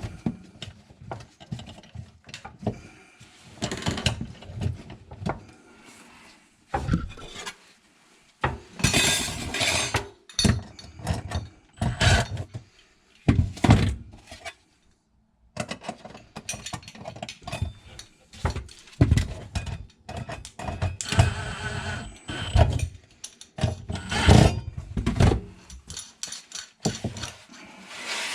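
Irregular knocks and clatter of tools and plumbing parts being handled, with a couple of longer noisy stretches and a short pause about halfway through.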